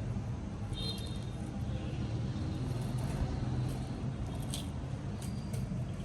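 Steady low background rumble, with a few faint short clicks and taps toward the end.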